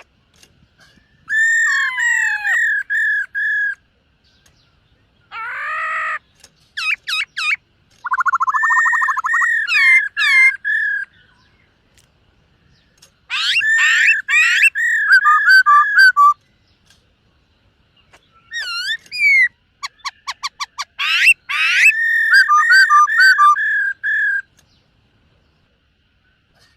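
Black-throated laughingthrush singing: loud, whistled phrases of rapid repeated and sliding notes, about seven bursts separated by short pauses.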